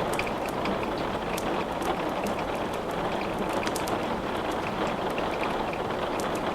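Steady rain falling, with scattered short, sharp crackles and ticks on top.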